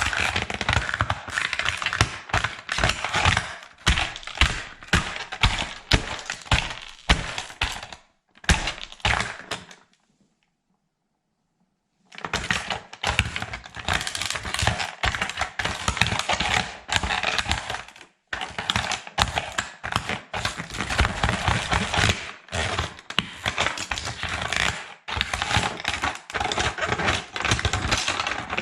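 Plastic toy military truck cracking and crunching under a sandal sole: a dense run of sharp clicks and snaps, broken by about two seconds of dead silence a little over a third of the way in.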